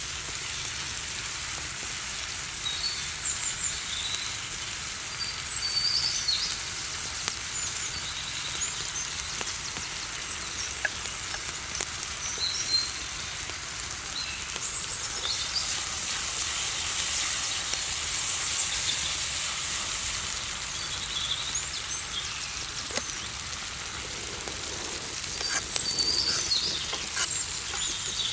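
Food sizzling steadily as it fries in a pan, with birds chirping here and there in the background.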